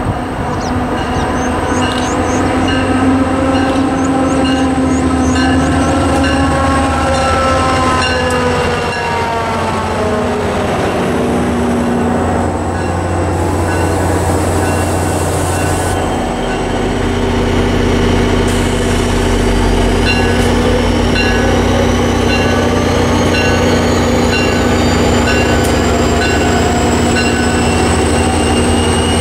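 NJ Transit diesel commuter train passing close by: a drone of several tones drops in pitch as the head of the train goes past, then the coaches roll by. In the last third a high, thin whine climbs steadily in pitch over the train's running noise.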